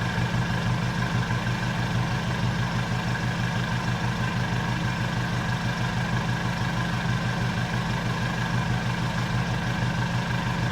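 Nissan Navara pickup's exhaust through an aftermarket SUS304 stainless-steel muffler with no fibreglass packing and a cat-delete pipe, the engine running at a steady speed with an even, unchanging pitch.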